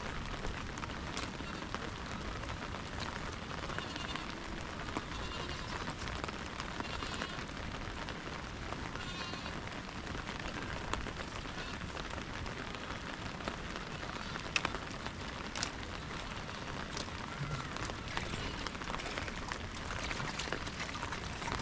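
Steady rain falling, an even hiss with scattered sharper drips.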